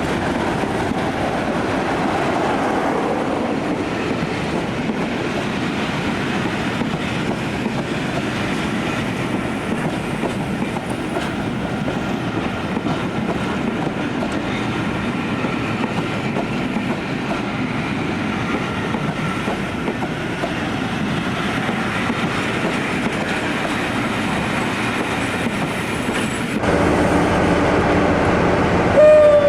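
Train running on the track, a steady continuous running noise. Near the end the sound changes abruptly and grows louder, with a brief high tone just before the end.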